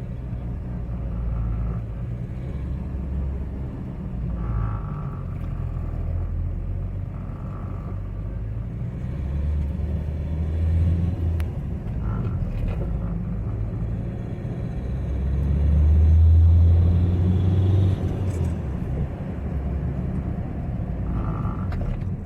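Hyundai Verna CRDi four-cylinder common-rail diesel running on a test drive, a steady engine and road rumble with two stronger low surges, about ten seconds in and around sixteen seconds, as the car pulls in a low gear. This is the jerking on pull-away that the mechanic suspects comes from unstable rail pressure from the high-pressure fuel pump, or a weak injector.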